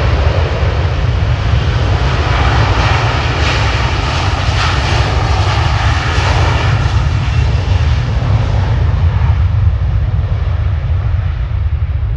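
Jet airliner passing close by, a loud rushing roar over a deep rumble that peaks midway and begins to fade after about nine seconds as it moves away.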